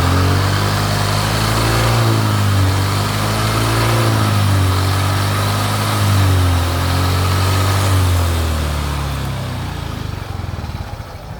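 Yamaha Mio i125 M3 scooter's single-cylinder four-stroke engine running and revved up and down several times, then settling down near the end. It is the test run after a new primary drive was fitted, and the mechanic judges it all good.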